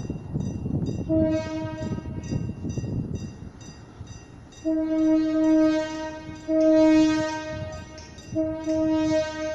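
Passenger train horn sounding: one short blast about a second in, then three longer blasts of a steady single-pitched tone, over the low rumble of the train running past.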